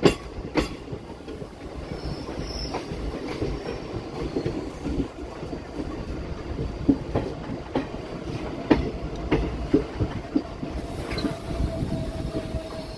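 Express passenger train coaches running over the track, heard from aboard: a steady rumble with irregular clicks of the wheels over rail joints. A faint thin wheel squeal comes in near the end as the train rounds a curve.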